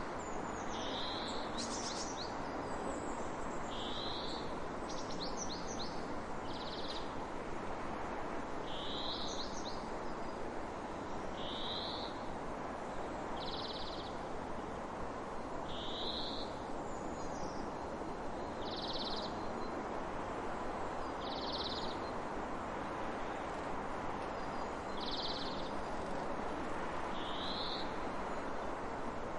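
A bird repeats a short, high call about every two seconds over a steady rushing background noise.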